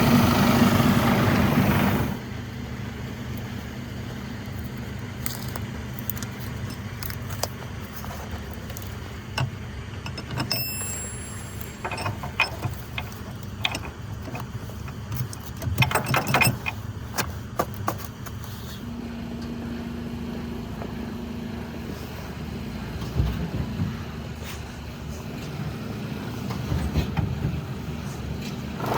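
Heavy truck engine idling for the first two seconds. Then it gives way to a quieter steady hum with scattered clicks and knocks and a brief metallic jingle about ten seconds in.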